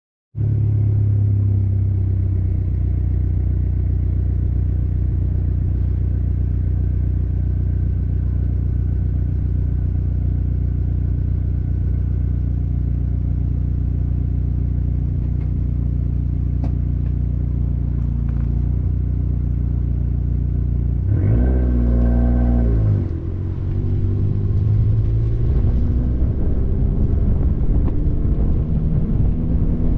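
Car engine idling steadily, picked up by a camera mounted on the car's own flank. About 21 seconds in the revs rise as the car pulls away, dip briefly, and then the engine runs under way with rougher, fluctuating tyre and wind noise.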